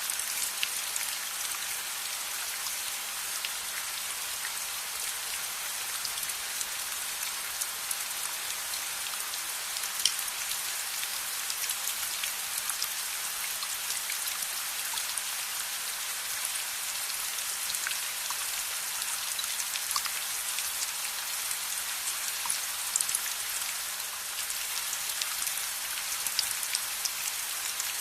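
Steady rain: an even hiss of rainfall with many scattered sharp ticks and pops over it.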